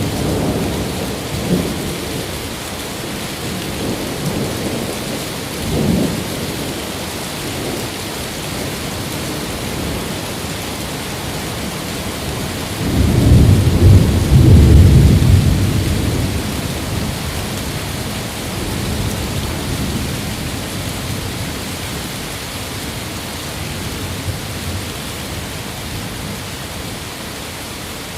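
Steady rain with rolling thunder. Low rumbles come in the first couple of seconds and again about six seconds in. A loud, deep peal starts about thirteen seconds in, rumbles for a few seconds and fades away.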